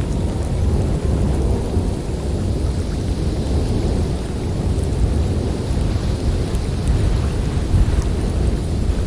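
Blizzard wind blowing steadily, a dense low noise with little change in level.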